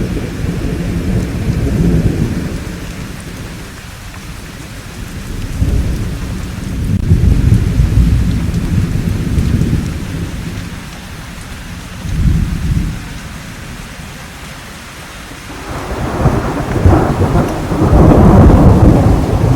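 Thunderstorm: steady rain hissing under repeated deep rolls of thunder that swell and fade, with a louder, sharper thunderclap building near the end.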